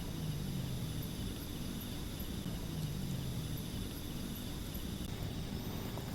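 Outdoor nature ambience: a high, thin insect trill with small regular chirps that stops about five seconds in, over a low steady hum.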